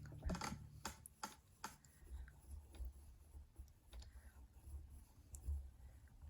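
Faint scratching and tapping of a drawing tool on paper as details are added to a sketch, with a few short sharp clicks scattered through.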